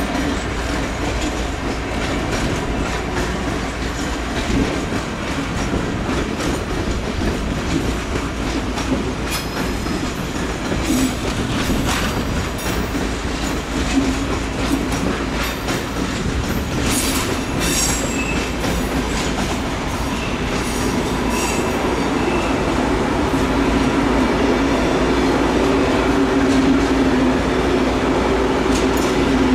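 Train running through a railway station, its wheels clicking over the track, with brief high wheel squeals in the middle of the passage. A low hum grows louder near the end.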